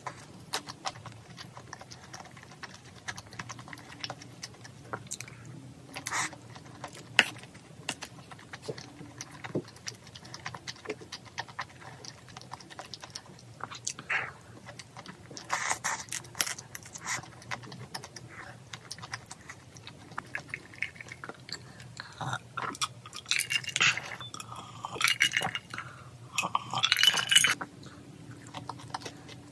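Close-miked eating sounds: chewing of shrimp and rice with wet mouth clicks, and light taps of chopsticks and a spoon, busiest near the end.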